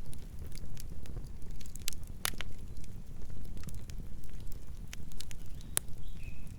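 Wood fire burning, with irregular sharp crackles and pops over a steady low rumble of flame. Two of the pops are louder than the rest, and a faint short whistle comes near the end.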